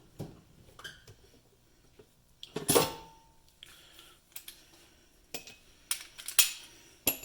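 Metal hand tools clinking and clanking as they are picked up and set down, a handful of separate sharp knocks with the loudest about three seconds in, ringing briefly.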